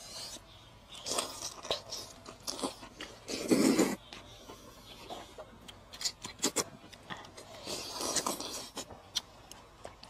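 A person chewing and biting food close to the microphone: irregular crunches and wet smacking clicks, with a louder bite about three and a half seconds in.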